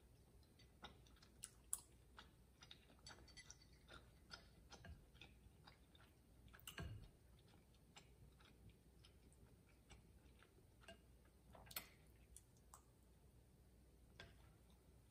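Faint chewing and wet mouth sounds of someone eating tteokbokki rice cakes and glass noodles, broken by scattered light clicks, with a slightly louder cluster about halfway through.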